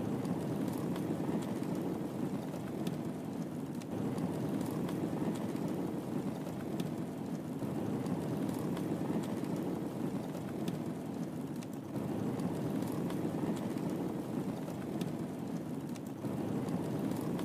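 Wood fire crackling in a fireplace: irregular small pops and snaps over a steady low rumble of burning.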